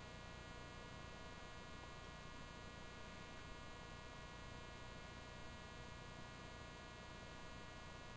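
Faint, steady electrical hum with a thin buzz, unchanging throughout, and nothing else to be heard.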